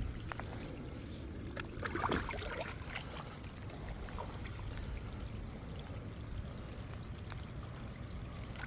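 A released catfish splashing back into the water in a brief burst about two seconds in, over a steady low rumble of wind on the microphone, with a few faint clicks and trickles.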